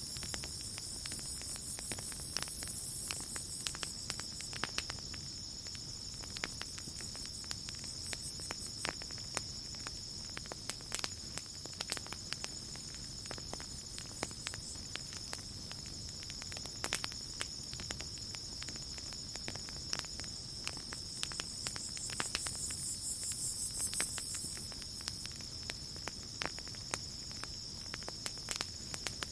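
Campfire crackling with scattered sharp pops over a steady chorus of crickets trilling, with louder spells of high insect buzzing near the start and a little past two-thirds of the way through.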